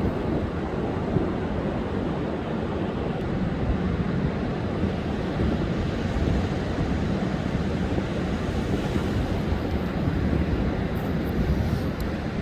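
Rough storm surf under a high-seas advisory: waves breaking and washing on the beach as a steady, heavy low rumble, with wind on the microphone.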